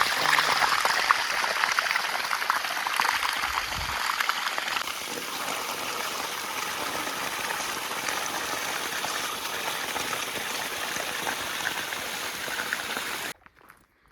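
River water flowing in a steady rushing hiss, louder for the first few seconds, then even, and cut off abruptly near the end.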